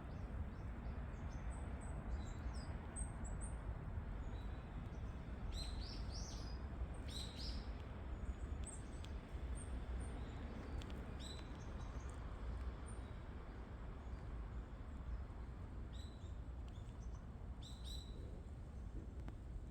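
Wild birds calling: short, high chirps and quick sweeping notes, coming in scattered clusters every second or two. A steady low background noise runs underneath.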